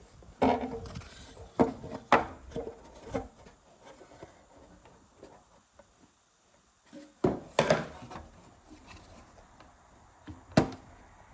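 Scattered knocks and clatters of the door and track-saw gear being handled, a handful of separate hits, some with a short ringing tone; no saw running.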